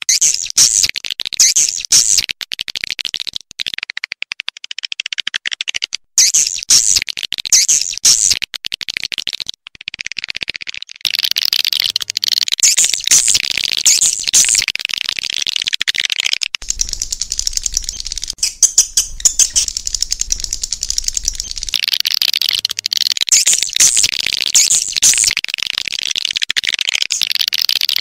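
Swiftlet calls: dense, rapid chirping and twittering trills that run almost without a break, with a couple of short pauses. This is the kind of swiftlet call track played to draw swiftlets into nesting houses.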